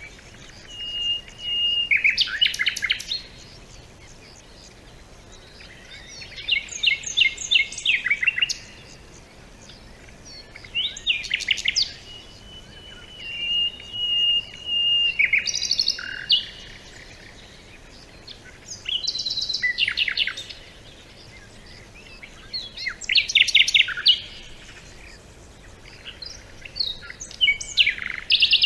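A songbird singing: short phrases of rapid high trilled notes, some opening with a held whistle, repeated about every four seconds with pauses between them.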